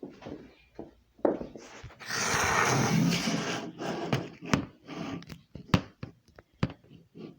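A series of knocks and clicks from handling things, with one louder rustling, hissing burst about two seconds in that lasts roughly a second and a half.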